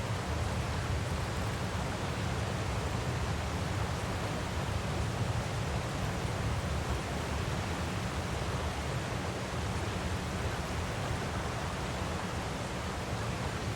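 Waterfall recording: a steady, even rush of falling water with no breaks or changes.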